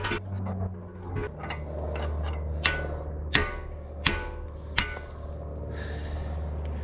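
Four sharp hammer blows on steel, about two-thirds of a second apart, each with a short ring, over a steady low hum. The hammer is driving out a worn pin from the excavator.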